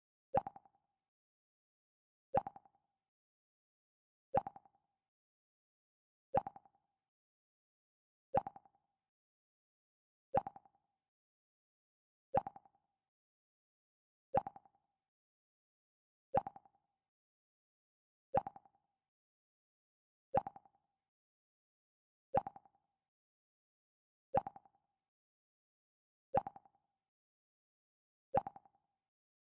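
Mac OS X 'Pluck' alert sound: a short plucked tone that dies away quickly, repeating every two seconds, about fifteen times.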